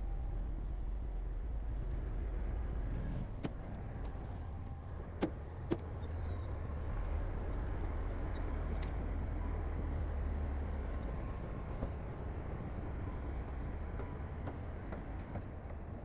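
Heavy diesel earthmoving machinery running with a steady low rumble, with a few sharp metallic clanks in the middle.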